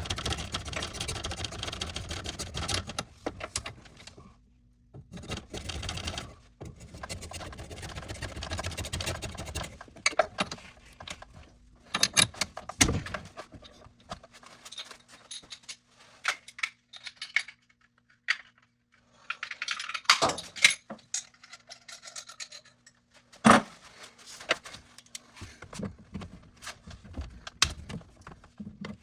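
Plumbing hand tools working on a water pipe fitting: two spells of steady scraping or rasping, then scattered sharp clicks and knocks of metal tools and pipe parts.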